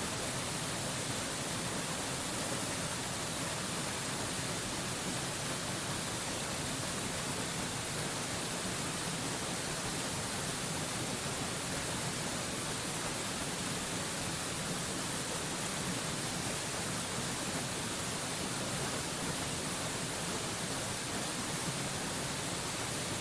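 Waterfall rushing, a steady, even hiss of falling water with no breaks or changes.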